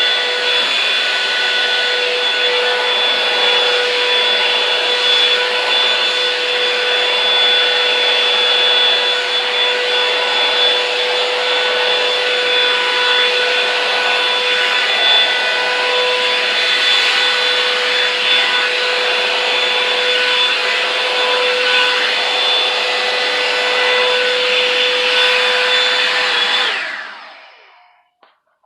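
Revlon One Step hair dryer brush running steadily, a loud rush of air with a steady motor whine, on its low setting. Near the end it is switched off and winds down quickly.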